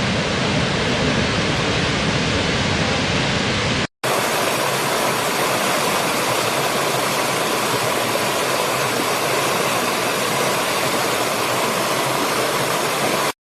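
Steady rushing roar of falling water from a waterfall. About four seconds in it drops out for a moment and resumes with more hiss and less low rumble. It cuts off abruptly near the end.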